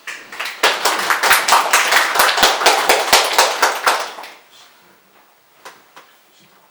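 Audience applauding for about four seconds, then dying away, with a few faint knocks in the quiet that follows.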